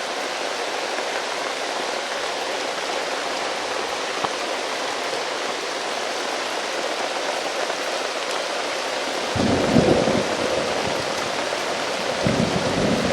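Heavy rain falling steadily. About nine seconds in, low rumbling of thunder sets in and comes again near the end.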